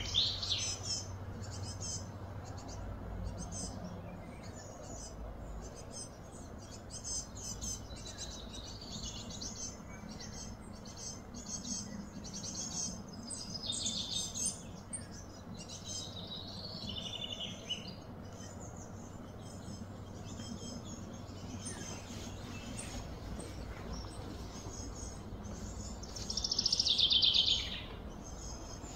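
Small birds chirping and calling again and again over a steady outdoor background, with one louder, rapid buzzing trill near the end.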